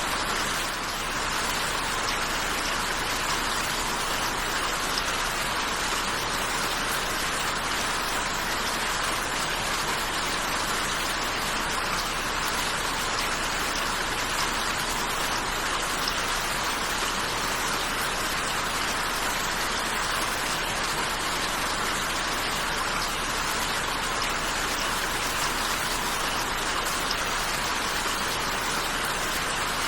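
Steady rainfall: an even hiss of rain falling on a surface, with no change in strength.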